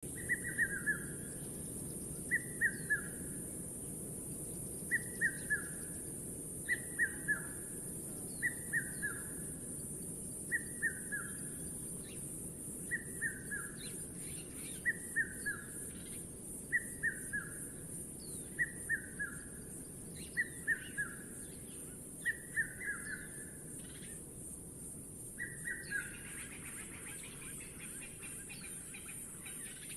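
A bird repeating a short call of three or four quick falling notes, about once every two seconds, over a steady high hiss of background noise. Near the end a brief rasping sound runs under the calls.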